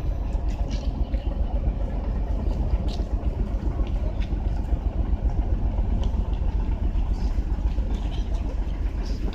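Steady low rumble of a heavy vehicle's engine running.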